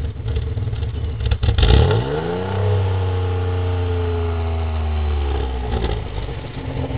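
Nissan VE30DE 3.0-litre DOHC V6, naturally aspirated, heard at the exhaust tip: idling, then a single rev about two seconds in that climbs quickly. It eases slowly back down to idle over about four seconds.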